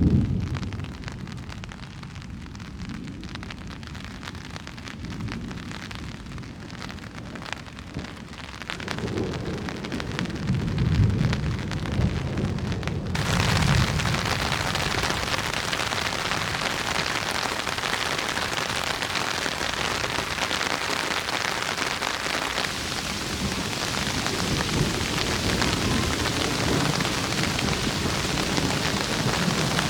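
Thunderstorm: low rolls of thunder over light rain, then about thirteen seconds in a steady downpour of heavy rain starts abruptly, with more thunder rumbling under it.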